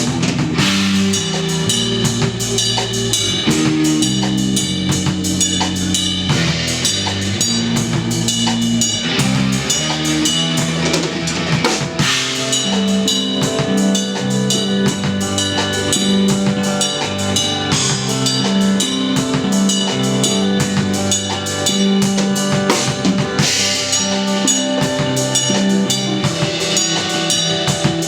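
Instrumental post-rock trio playing live: a drum kit keeps a dense, steady beat with bass drum and snare, under held electric bass notes and electric guitar.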